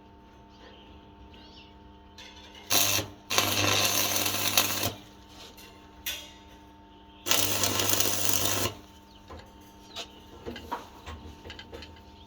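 Electric arc welding: two welding runs of steady crackle and buzz, the first about two seconds long and the second about a second and a half, with light metallic ticks between and after them.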